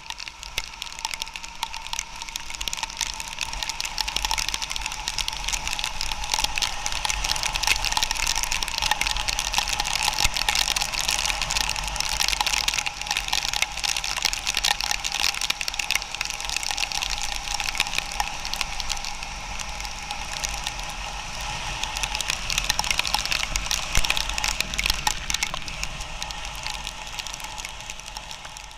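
Action camera rattling in its mount on a motorcycle riding a broken, potholed road: dense rapid clicking over a steady low rumble.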